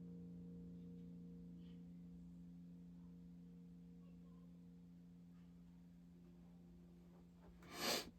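A string on a Solar 27-inch baritone electric guitar ringing out after being plucked, one sustained note slowly fading. Near the end a brief, louder noisy scrape or brush.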